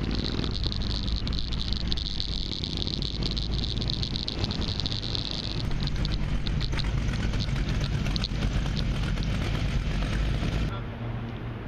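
BossHoss motorcycle's 502 cubic-inch big-block V8 (ZZ502) running, its exhaust muffled to meet Japanese noise rules, with a steady high hiss over it for the first half. The level drops near the end.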